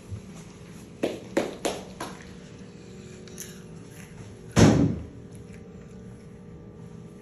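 Four quick sharp knocks of things being handled, then one loud thud about four and a half seconds in, like a door or cupboard shutting.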